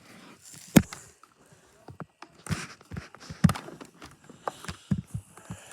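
Irregular sharp knocks and clicks from an iRobot Roomba robot vacuum being handled.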